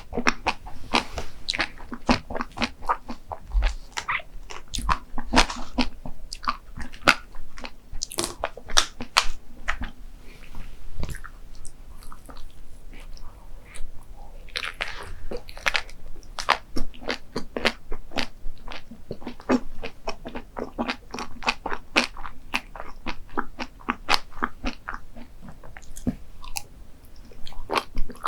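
Close-miked eating: crisp, crackly crunching bites and chewing of a crunchy dessert, many sharp crunches through the whole stretch.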